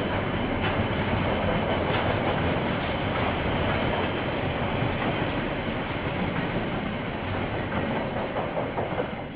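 A KiwiRail train rolling past, with wagon wheels clattering over the rail joints. It fades near the end as the train moves away.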